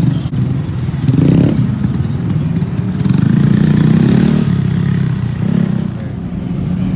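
Motorcycle engines running, swelling in level about a second in and again around three to four seconds.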